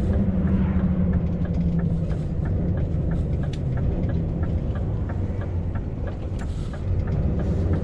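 Scania V8 truck engine running steadily while the truck drives along, a low even hum with a regular light ticking over it at about three ticks a second.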